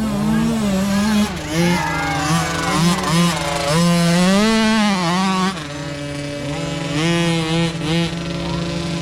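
Several mini dirt bike engines revving at once, their pitches rising and falling as the riders work the throttles.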